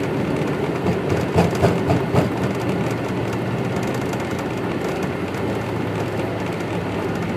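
Boeing 777 on its landing rollout, heard from the cockpit: a steady rumble of the engines and the wheels running on the runway as the jet decelerates, with a few short knocks and jolts about one and a half to two seconds in.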